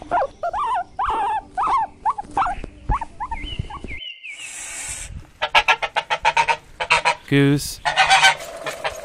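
A guinea pig squeaking in a run of short repeated calls, then, after a brief break about four seconds in, a goose honking in a rapid series of calls.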